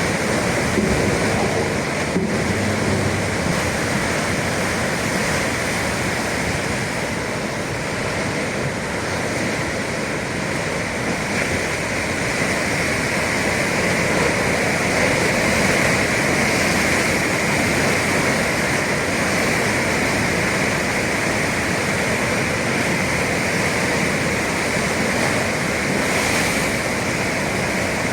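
Atlantic sea waves and surf washing against the shore in a steady rush, swelling and easing slightly.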